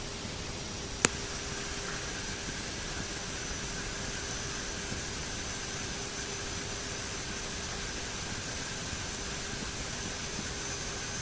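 Steady cockpit noise of a turboprop airliner in flight: an even hiss with a low steady hum and fainter high whines. There is a single sharp click about a second in.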